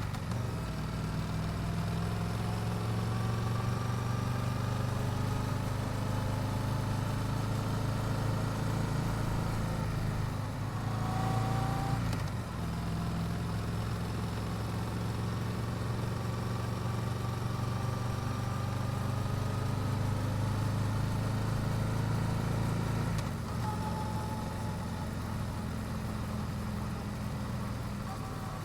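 Yamaha YZF-R7's 689 cc parallel-twin engine on the stock exhaust, running under way as the bike rides along. The engine note climbs slowly in pitch, with a change about a third of the way in and another about four-fifths of the way through.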